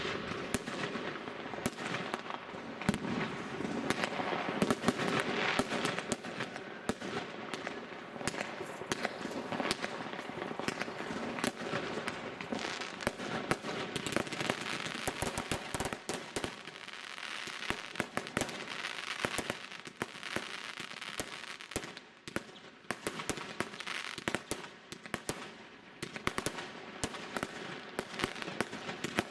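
Many fireworks going off at once, with rocket trails rising and aerial shells bursting: a dense run of rapid, overlapping bangs over a steady wash of noise, easing briefly about two-thirds of the way through.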